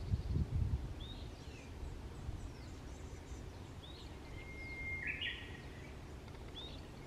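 Birds calling in short single chirps every couple of seconds, with a brief buzzy call a little after five seconds. A few low thumps in the first second, the loudest sound here.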